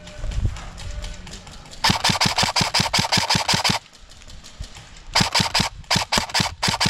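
Airsoft gun firing full-auto. A rapid burst of about two seconds begins about two seconds in, and several more bursts with short breaks follow from about five seconds in.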